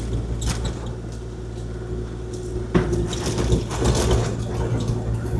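Kubota KX040-4 mini excavator's diesel engine running steadily, with rock and gravel crunching and clattering as it is spread, louder from about three seconds in.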